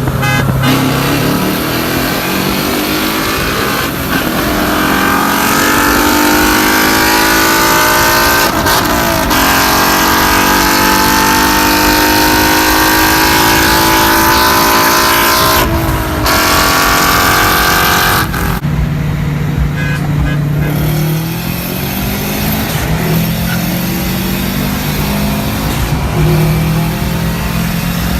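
Car engine pulling hard under acceleration, its pitch climbing and dipping briefly at two gear shifts. It then drops back to a lower, steady running note for the last third.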